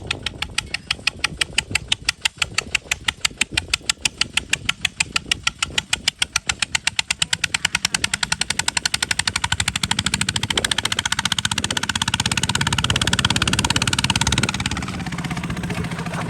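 Kubota RT140 DI single-cylinder diesel engine running with sharp, evenly spaced exhaust beats. The beats quicken as the engine speeds up, and blur into a steady run after about ten seconds.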